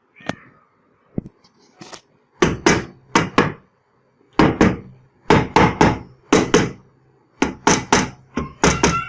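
Hammer blows tapping a Honda CD 70 engine's clutch cover down onto the crankcase to seat it. The sharp knocks come in quick clusters of two to four, repeated several times.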